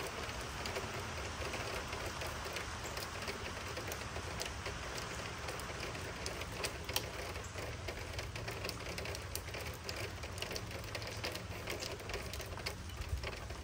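Light rain falling, many scattered drop ticks over a steady hiss.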